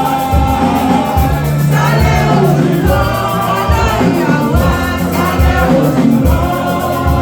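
Choir singing a gospel song with musical accompaniment, several voices over held low notes.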